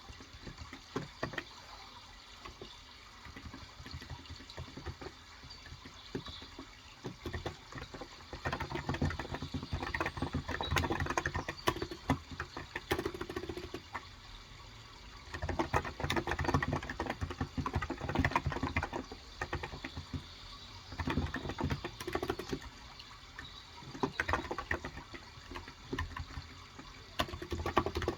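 Typing on a COX Endeavour electrocapacitive (Topre-style) 35 g tenkeyless keyboard: several runs of quick keystrokes with pauses between, over a steady sound of running water.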